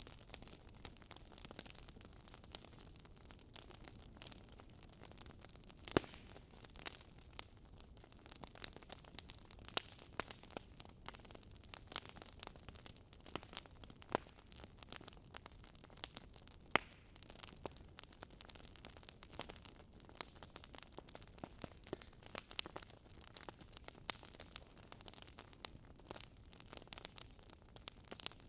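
Wood fire crackling in a fireplace: a soft hiss under a steady scatter of irregular small pops and snaps, with a couple of louder pops.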